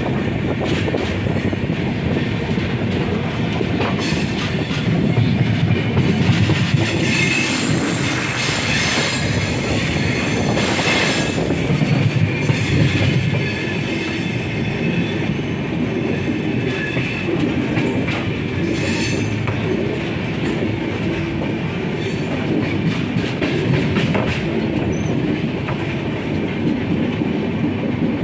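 Train running along the track, heard from aboard: a steady rumble of wheels on rail, clattering over rail joints and points. A high wheel squeal joins in for a stretch in the middle.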